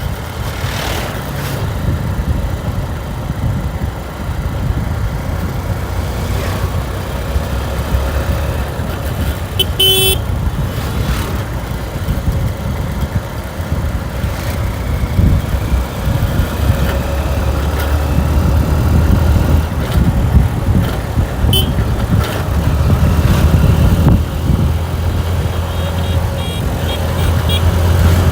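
A motorcycle running while riding, with a steady low rumble of engine and wind on the microphone. A few short horn beeps cut through, one about a third of the way in and another past the middle.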